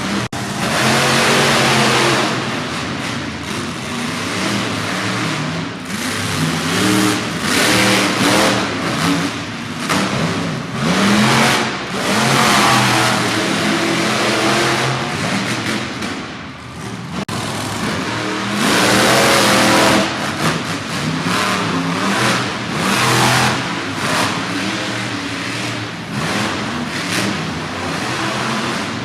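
Monster truck engines revving hard in a race, their pitch climbing and dropping again and again as the throttle is worked, with a short lull about two-thirds of the way through.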